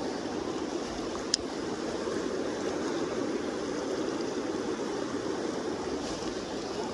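Kenai River current rushing steadily, with a single sharp click a little over a second in.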